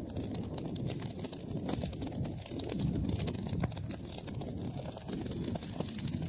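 Wood fire burning in a fireplace: a low, steady rumble of flames with many small, irregular crackles and pops throughout.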